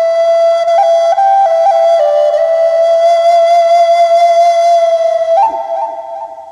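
Native American flute playing a slow melody: a long held low note broken by quick ornamental flips up to higher notes, then a step up to a higher note about five seconds in that fades away.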